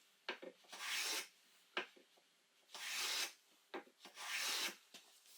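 Hand plane shaving a beech plank: three hissing strokes about half a second each, with short knocks between them, as the piece is trimmed to fit its socket.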